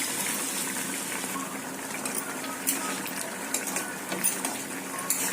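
Water added to a hot kadai of fried chicken, potatoes and masala, hissing as it hits the oil and fading into scattered popping and crackling as it bubbles.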